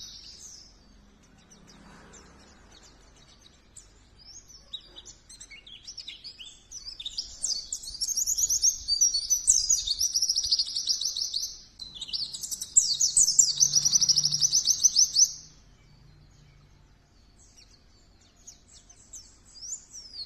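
A white-eye (pleci) singing: long, fast, high-pitched warbling trills in two bouts, with a short break just before the midpoint, then only a few faint calls near the end.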